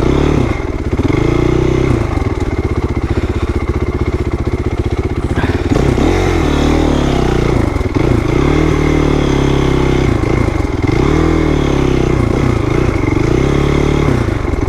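2008 Honda CRF450R's single-cylinder four-stroke engine being ridden, its pitch rising and falling every two to three seconds as the throttle is worked.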